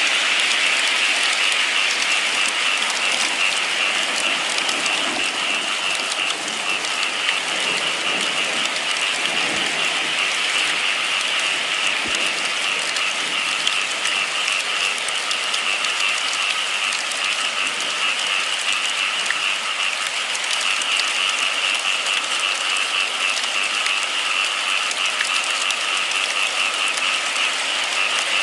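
Steady rain falling, a dense, even patter without a break.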